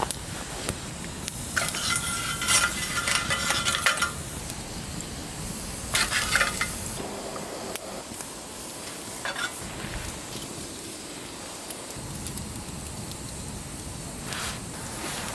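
Camp cooking gear being handled: two spells of clattering and rustling, the longer one about two seconds in and a shorter one around six seconds, then a few single clicks, over a steady low background.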